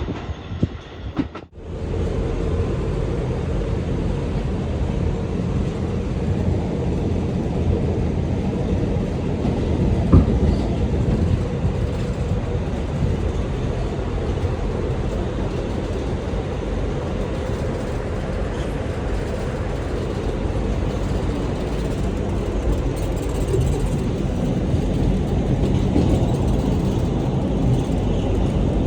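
Kawasaki R211A subway train running along the track with a steady rumble, after a brief break about a second and a half in.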